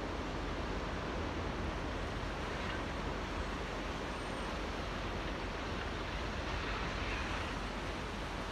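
Small waves lapping in a coastal tidal channel: a steady wash of water that swells slightly a couple of times.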